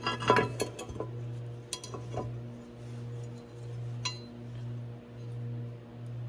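Metal tools and parts clinking and tapping a few times, mostly near the start, over a steady low hum that swells and fades about once a second.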